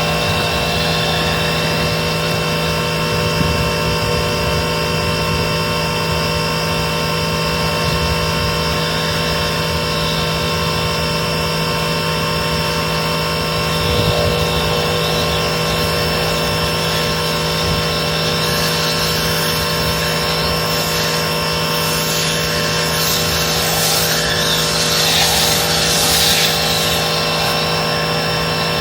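Pressure washer running steadily while washing the car, with a rush of water spray growing louder about three quarters of the way through.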